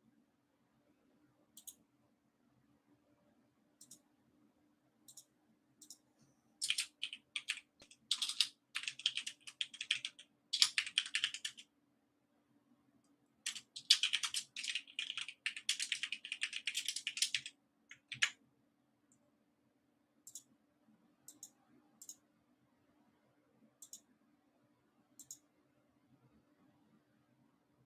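Computer keyboard typing in two runs of quick keystrokes a few seconds apart, with scattered single mouse clicks before and after them. A faint steady low hum lies underneath.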